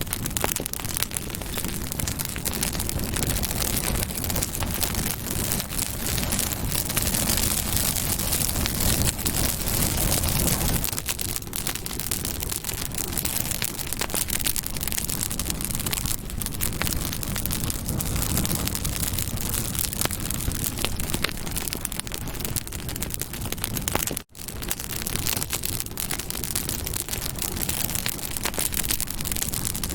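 Campfire burning with a dense, continuous crackle of small pops and snaps. There is a momentary gap of silence about 24 seconds in.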